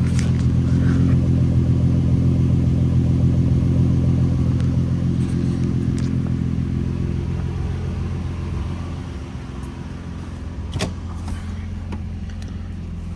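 2012 Ford Mustang's 3.7-litre V6 idling steadily, heard at the exhaust tip. It grows quieter about eight seconds in, and there is a single sharp click near the end.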